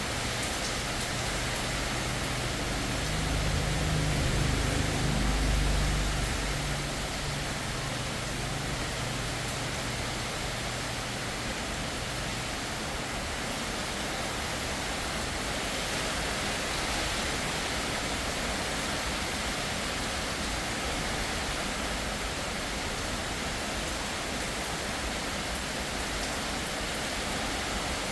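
Heavy rain pouring steadily as a dense, even hiss. A few seconds in, a low humming rumble swells and fades.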